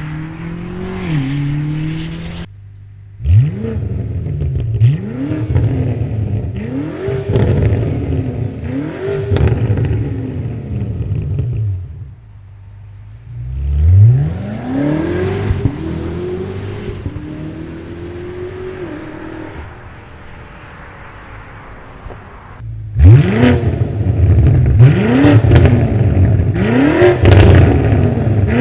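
BMW G99 M5 Touring's twin-turbo V8 through a DCE catback exhaust with the OPF deleted, accelerating hard through several quick upshifts: the exhaust note climbs and drops back at each gear change, with sharp crackles over the loudest pulls. It eases to a steadier, lower drone in the middle, then pulls hard through the gears again near the end.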